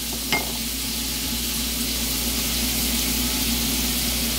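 Oil, minced scallion and garlic with a splash of soy sauce sizzling gently in a wok over very low heat, with a light click near the start.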